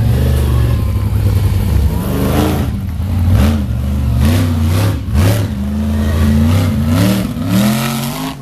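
Monster truck engine revving hard, its pitch climbing and dropping again and again as the throttle is worked. A few sharp bangs cut in, about three and five seconds in.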